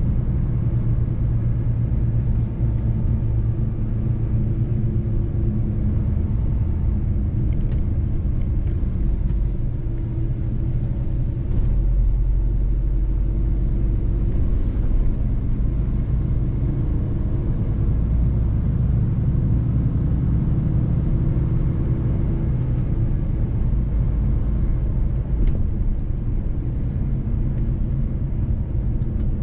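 Mercedes-Benz truck driving on the road: a steady low rumble of engine and road noise, with the engine's even drone under it.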